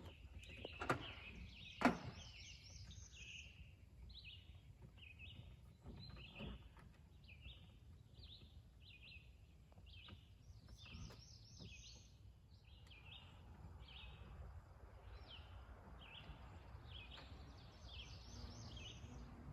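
A bird chirping steadily, about two short high notes a second, faint over a low rumble of outdoor background noise, with a few soft knocks in the first two seconds.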